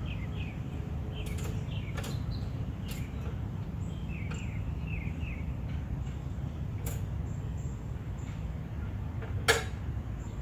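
Several sharp metallic clicks and clinks from hands working on a push lawn mower's parts, the loudest one near the end. Birds chirp at times over a steady low background noise.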